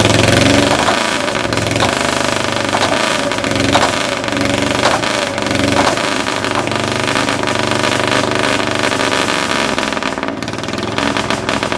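Caterpillar D9G bulldozer being started by its pony motor, a small gasoline starting engine. The engine runs steadily with a pulsing rumble and a sharp tick about once a second through the first half.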